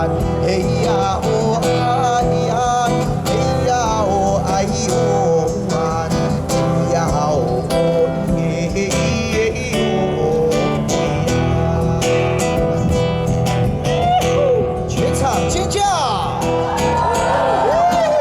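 Live performance of a traditional Taiwanese Indigenous tribal song: acoustic guitar strumming under wavering singing voices, with more sweeping vocal glides near the end.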